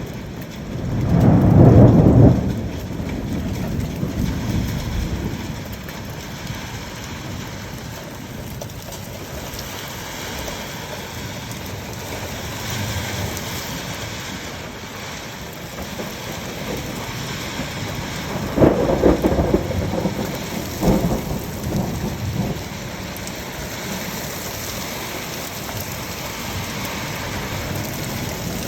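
A thunderstorm: a loud thunderclap about a second in that rumbles off over a few seconds, over steady rain. A second round of thunder rumbles comes about two-thirds of the way through.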